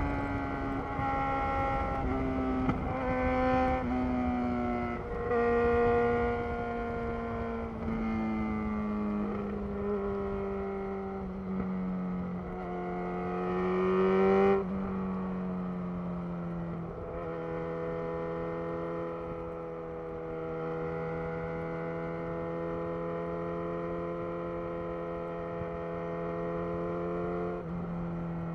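2011 Yamaha XJ6's 600 cc inline-four engine running through a Black Widow full aftermarket exhaust. Through the first half the revs fall in steps with several short rises. The note climbs about halfway, then drops off sharply and settles into a steady cruising note for the rest.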